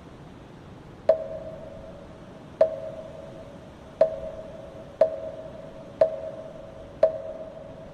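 A moktak, the Buddhist wooden fish, struck six times with a hollow, briefly ringing knock. The strikes start about a second in, come about a second and a half apart, then quicken to about one a second. A steady hiss of wind runs underneath.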